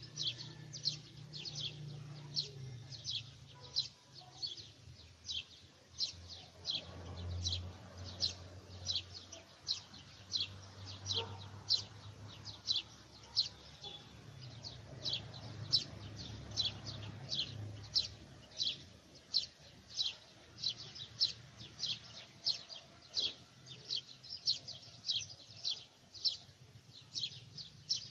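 A bird calling over and over with a short, high, falling chirp, about twice a second, over a faint low hum.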